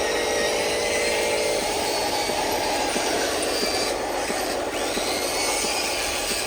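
Radio-controlled model truck driving: its small electric motor and gearbox whine steadily, with rattling and small clicks from the wheels and load rolling over a rough surface.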